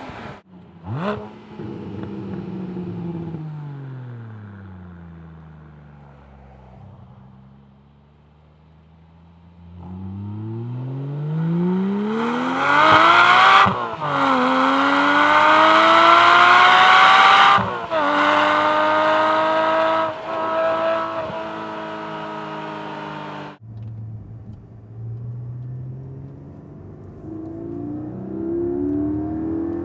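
Porsche 718 Cayman GT4's 4.0-litre flat-six under hard acceleration, heard from outside the car. The engine note falls away and fades, then climbs hard through the revs with two upshifts. Near the end it cuts to a quieter, lower engine note that rises again.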